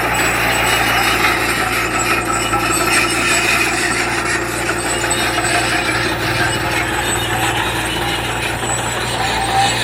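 Heavy earthmoving machinery at work: a diesel engine running steadily under a dense grinding, scraping noise.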